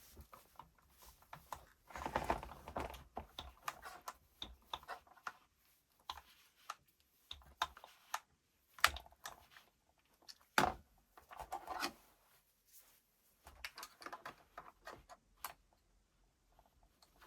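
Irregular clicks, taps and short scraping rustles of small hard parts being handled, with a sharper knock about nine seconds in and another near eleven seconds.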